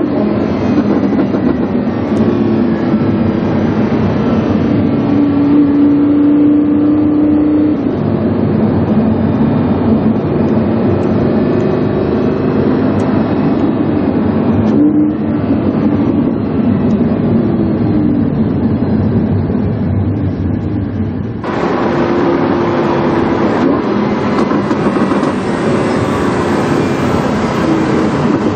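Lamborghini Huracán's naturally aspirated V10 running through a PowerCraft aftermarket exhaust, heard onboard while driving; the engine note rises and falls repeatedly as the car accelerates and changes gear, with a steady stretch about five seconds in.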